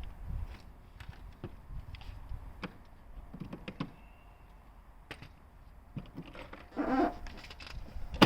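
Scattered clicks and knocks of hand tools being handled during engine-removal work, with a brief scraping rattle about seven seconds in and a sharp knock at the very end.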